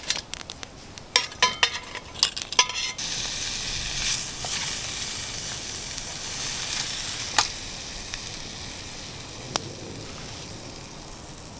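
A few metal clinks and taps, then food sizzling in a hot pan on a campfire from about three seconds in, slowly dying down, with a couple of single clicks as it is stirred.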